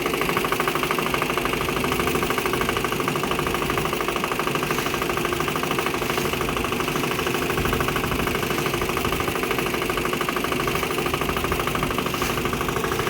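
Boat engine running steadily, a fast even chugging with no change in speed.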